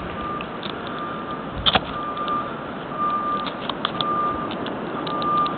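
Vehicle reversing alarm beeping steadily, about one beep a second, over a constant rush of wind and engine noise, with one sharp knock about two seconds in.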